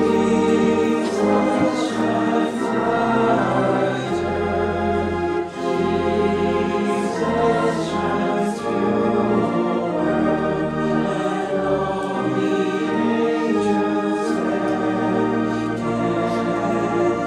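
Voices singing together in chorus with organ accompaniment, in slow held chords.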